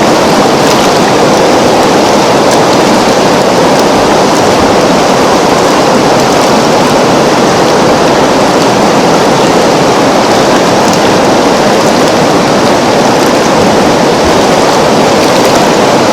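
River water flowing in a steady, loud rush.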